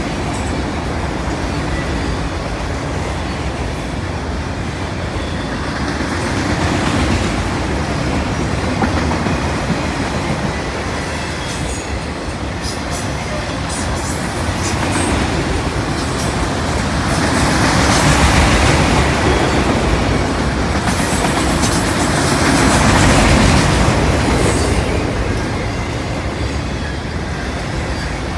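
CN freight train's cars rolling past on the rails: a steady rumble and clatter of wheels, swelling louder twice in the second half.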